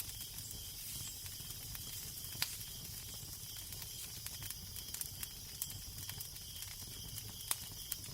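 Fireplace fire crackling, with frequent small snaps and two louder pops, over a steady hiss and a low steady rumble.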